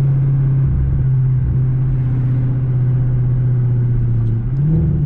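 Single-turbo 2014 Audi S6's V8 engine and exhaust running steadily at cruise with a constant low note. About four and a half seconds in, the pitch sags briefly and then rises again.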